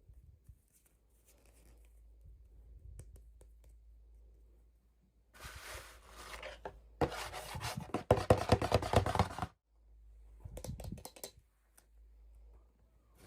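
Doll packaging being handled and opened: scratchy, crackling bursts of cutting or tearing and rustling. The loudest run starts about seven seconds in and lasts a couple of seconds, and a shorter burst follows.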